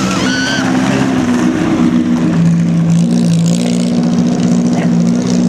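Classic open sports car engine running at low speed as the car pulls away, its note stepping up and down with the throttle.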